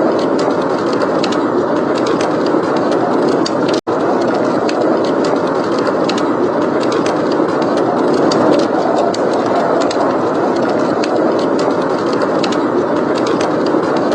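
Steady blizzard wind with a wood fire crackling over it in frequent small, sharp pops. The sound cuts out for an instant about four seconds in.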